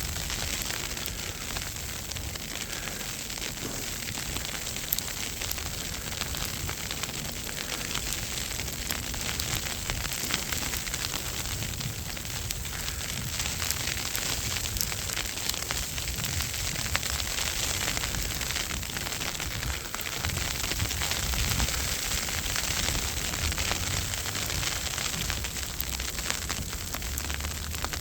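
Steady crackling hiss of a snowstorm: wind and falling snow and ice, with low buffeting rumble on the microphone.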